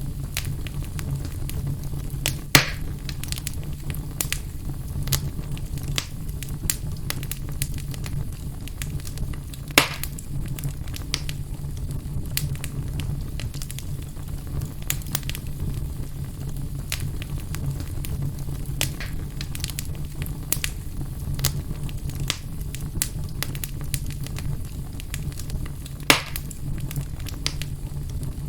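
Fire burning in a fireplace: a steady low rumble with frequent small crackles, and three louder pops, one a couple of seconds in, one about ten seconds in and one near the end.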